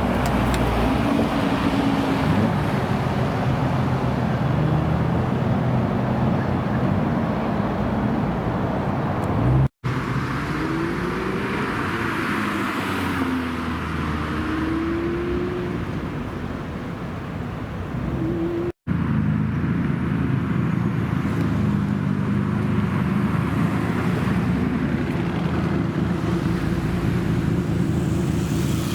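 Car engines running, heard in three separate clips split by two brief cuts to silence. In the middle clip the engine notes rise and fall.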